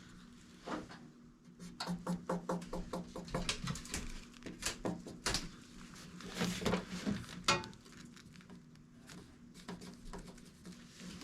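Hand work on sheet metal: a run of light, irregular clicks and taps, in a quick cluster early on and a few more near the end, over a steady low hum.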